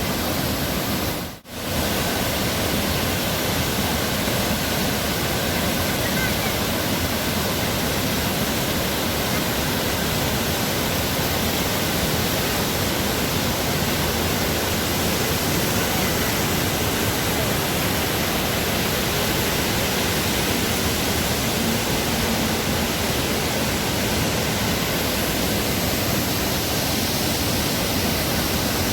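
The Dubai Water Canal's man-made waterfall, water pouring steadily into the canal with a constant rush. It cuts out for a split second about a second and a half in.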